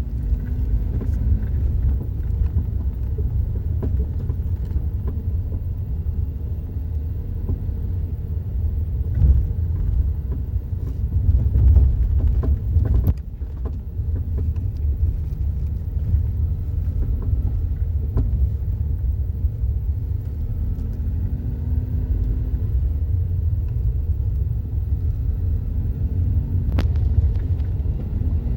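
A car driving, with a steady low rumble of road noise and scattered sharp knocks and clatter, the loudest about halfway through. This is the rattle over bumps from the driver's footwell, traced to a worn stabilizer link.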